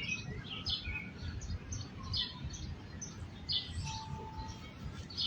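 Birds chirping: short, high, downward-sliding chirps repeating about once or twice a second, over a low outdoor rumble.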